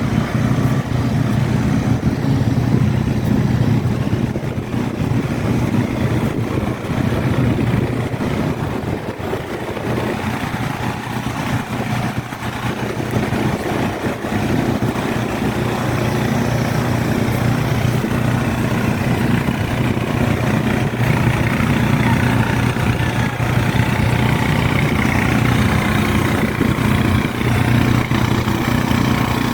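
An engine idling steadily, a low, even hum with a constant pitch.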